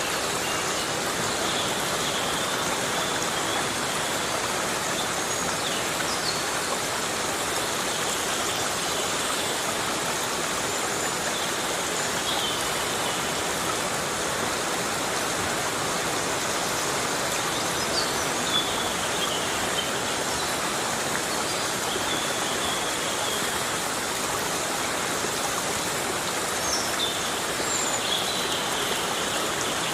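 Heavy rain falling steadily in a forest, an even hiss of water, with a few faint high chirps now and then.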